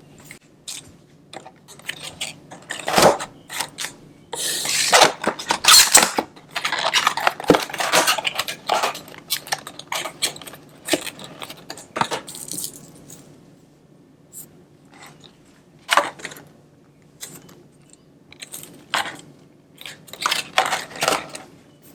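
Small die-cast metal model airliner and its packaging being handled: scattered light clicks and taps, with stretches of rustling about four to eight seconds in and again around ten to thirteen seconds.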